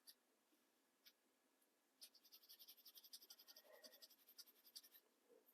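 Faint, rapid scratching strokes on paper, typical of excess glue being rubbed off a page. They start about two seconds in and last about three seconds, after a couple of single soft ticks.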